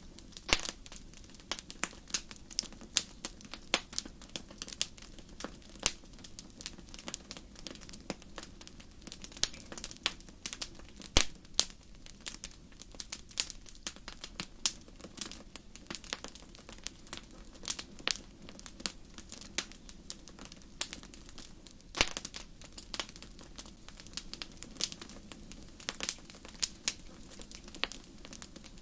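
Wood campfire crackling: irregular sharp pops and snaps, several a second, over a steady low background.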